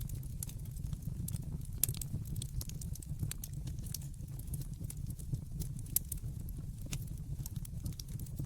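Wood fire crackling: irregular sharp pops and snaps over a steady low rumble, with two louder pops about two seconds in and near six seconds.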